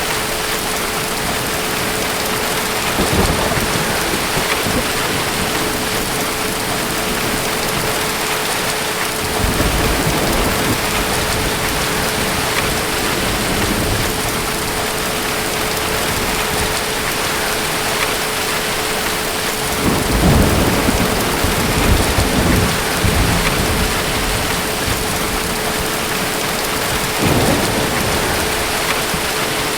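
Steady heavy rain with low rolls of distant thunder: a short one about three seconds in, another around ten seconds, a longer rumbling stretch about two-thirds of the way through, and a brief one near the end.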